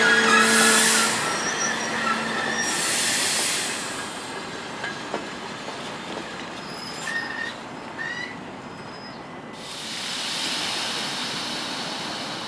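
Passenger train braking at a platform: the wheels and brakes squeal loudly at first, then fade to scattered short squeals and clanks as it slows. A steady hiss starts near the end.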